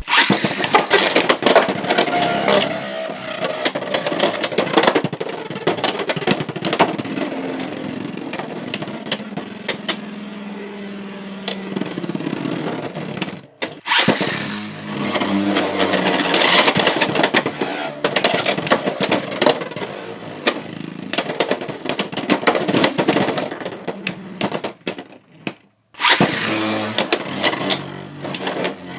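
Two Beyblade X spinning tops, Fox Brush J9-70GR and Hells Reaper T4-70K, whirling and clashing in a plastic stadium: a dense rattle of rapid hits and scraping. It breaks off briefly twice, about halfway and near the end.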